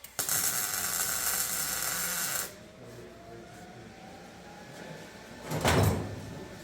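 A high-speed power tool runs on metal for about two seconds, then cuts off abruptly. One loud short knock comes near the end.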